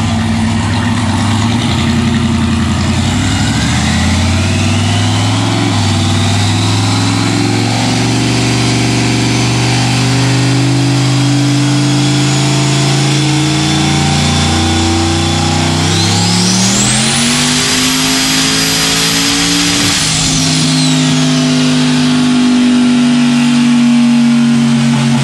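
Turbocharged Corvette V8 running steadily just after start-up. About two-thirds of the way through it speeds up to a higher steady pitch, with a high whine climbing alongside, then drops back to its earlier speed.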